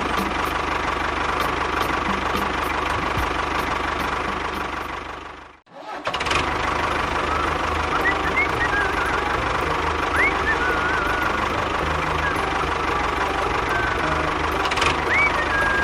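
A small engine running steadily, cutting out to silence for a moment about six seconds in and then running again. A few short, faint high chirps sound over it in the second half.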